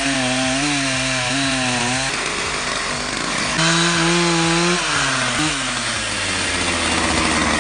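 Chainsaw running while cutting into a tree, its engine note wavering and shifting pitch several times as it loads in the wood, settling lower near the end.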